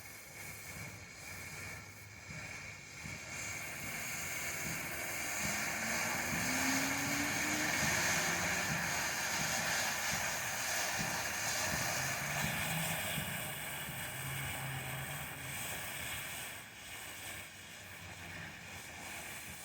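Phantom Fireworks Flaring Stars ground fountain burning with a steady hiss of gold sparks, swelling louder for several seconds mid-way and then easing as it nears the end of its burn. A low-noise item, so there are no loud bangs.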